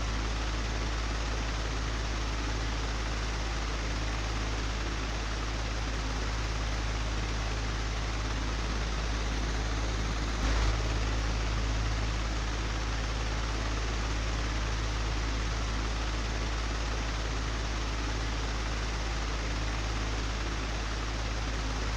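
Old, broken electric fan running steadily: a constant rush of air over a strong low motor hum. One brief knock comes about halfway through.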